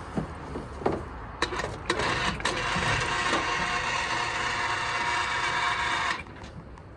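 A few sharp knocks, then a steady mechanical whirring for about four seconds that cuts off suddenly.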